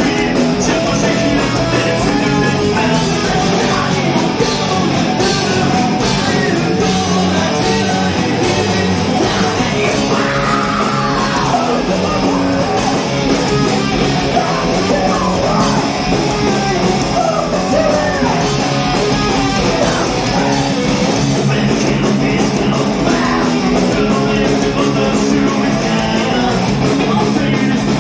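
A rock band playing live, with distorted guitars, bass, drums and shouted singing.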